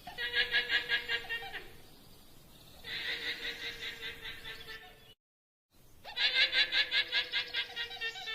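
Llama alarm calls: three high, rapidly pulsing whinny-like calls of one and a half to two and a half seconds each, with a brief total silence between the second and third.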